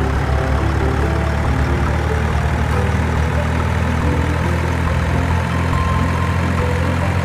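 Many marbles rolling along wooden tracks, a steady dense rumble.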